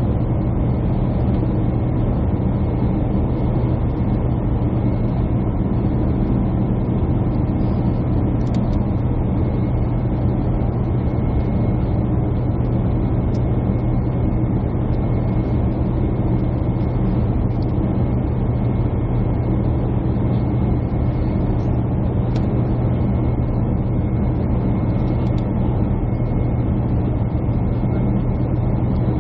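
Steady drone of a jet airliner's cabin heard from a window seat, a constant low hum with a faint steady whine above it and an occasional faint tick.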